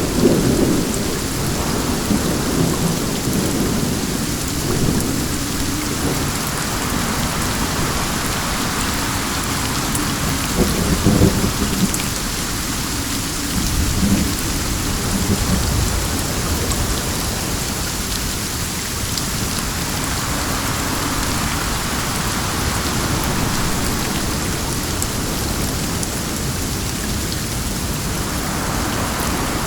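Steady rain pouring down, with low rolling rumbles of thunder that swell and fade, loudest about eleven seconds in.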